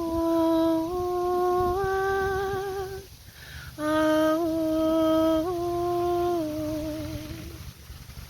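A woman's voice toning long held notes without words, for sound healing, in two phrases with a breath between. The first phrase steps up in pitch twice and ends with a wavering vibrato. The second holds its note and then steps down and wavers near the end.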